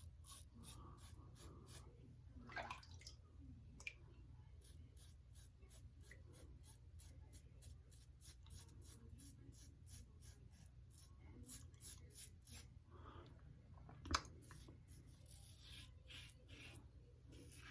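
Wolfman WR2 safety razor with a Nacet blade scraping through lathered stubble: a quiet, rapid run of short scratchy strokes, about two to three a second, with one sharper knock about fourteen seconds in.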